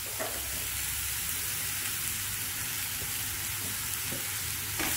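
Chopped onions with ginger-garlic and green chillies sizzling steadily in oil and ghee in a non-stick frying pan, stirred with a silicone spatula.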